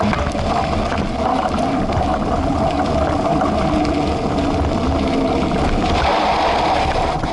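Knobby mountain-bike front tyre rolling on pavement right beside the microphone: a steady hum over a low rumble, with scattered small clicks and rattles.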